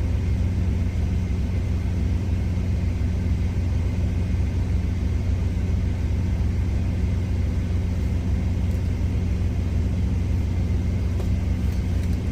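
Steady low rumble of a semi-truck's diesel engine idling, unchanging throughout, with a few faint clicks near the end.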